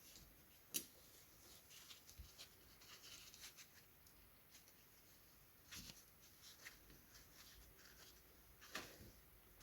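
Near silence with scattered faint clicks and taps of small objects being handled, the sharpest about a second in.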